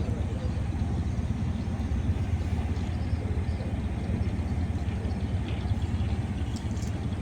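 River boat's engine running steadily, a continuous low drone.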